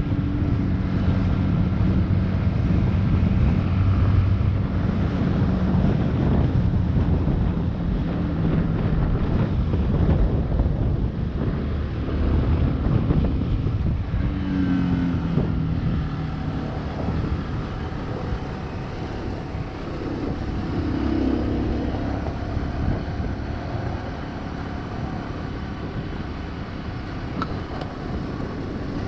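Motorcycle engine running under way, its note rising and falling with speed and gear changes, over a steady rush of riding noise.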